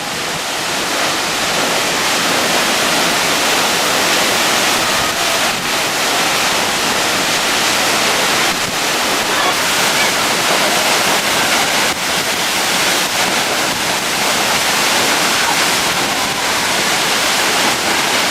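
A waterfall, Dominica's Victoria Falls, pouring steadily into its pool: a loud, even rush of water with no change.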